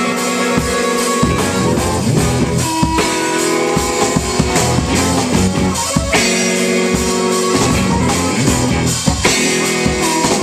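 Live rock band playing an instrumental passage without singing, drum kit and guitar prominent, loud and dense as picked up by a small camcorder microphone.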